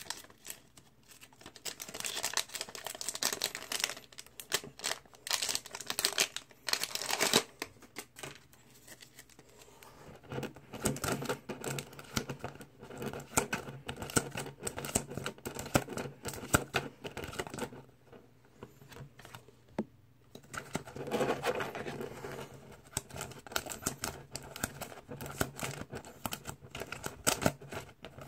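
Plastic card-pack wrapping crinkling and tearing as trading cards are unpacked and handled, in irregular bursts with short pauses.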